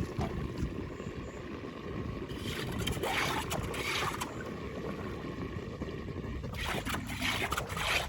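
Steady low rush of flood water draining. About two seconds in and again near the end, it gets louder and hissier for a stretch of a second or two.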